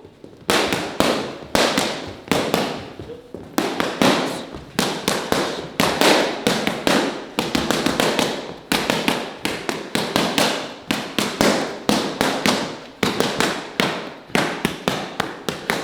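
Boxing gloves smacking focus mitts in fast punch combinations: sharp slaps in quick runs of several strikes, with short pauses between the runs.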